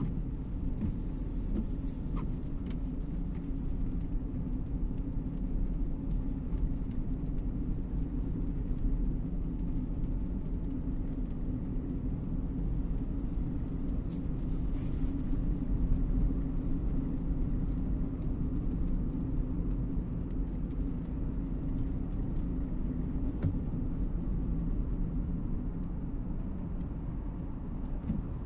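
Steady low rumble of a car driving on a wet road in the rain, engine and tyre noise heard from inside the cabin.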